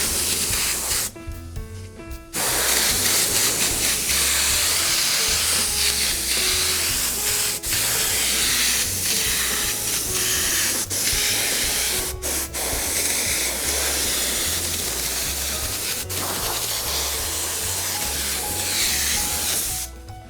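Spray glue hissing steadily as it is sprayed onto seat cushion foam, with a short pause about a second in.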